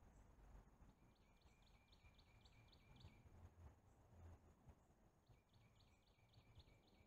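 Faint songbird song: two phrases of quick repeated down-slurred notes, about four a second, the first starting about a second in and the second about five seconds in.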